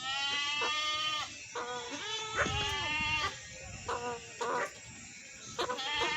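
Bleating livestock: a run of wavering, pitched bleats, a long one first and then several shorter ones with short pauses between them.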